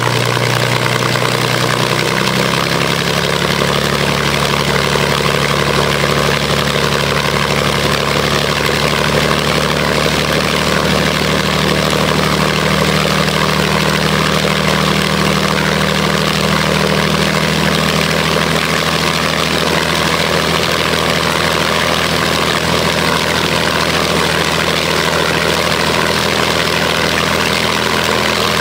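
Rolls-Royce Merlin 500-29 27-litre V12 aero engine running on test; its speed steps up about two seconds in, then holds steady.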